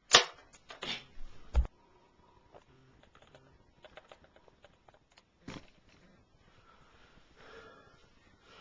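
A few sharp knocks and clicks, the loudest at the very start and another with a dull thud about a second and a half in, then faint scattered ticks and one more short knock near the middle.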